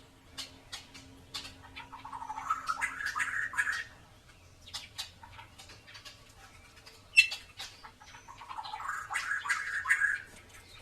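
White-rumped shama (murai batu) singing: a rising warbled phrase about two seconds in and another near the end, with short scattered chip notes between and one sharp, loud note about seven seconds in.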